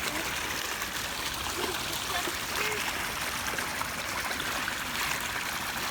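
Steady rush of flowing floodwater in a swollen creek.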